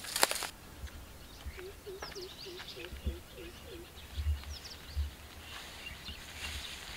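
Dry grass and brush crackling under footsteps for a moment at the start, then a bird gives a quick run of about eight short, low notes, with a few faint high chirps from other birds.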